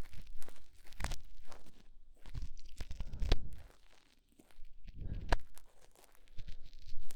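ASMR ear cleaning: an ear pick scraping and scratching against a microphone's ear in irregular crunchy strokes, with a short quiet pause about four seconds in.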